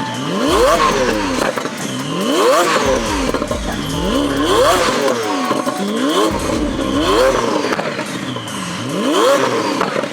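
Car engine being revved hard again and again, each rev climbing quickly and dropping back, roughly every one and a half to two seconds.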